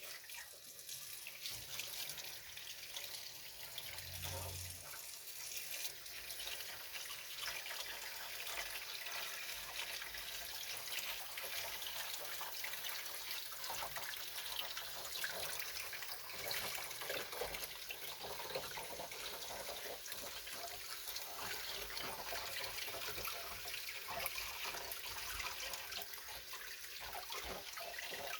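Tap water running and trickling into a small basin, with fine splashing and drips, as water is run for a pet frog's bath.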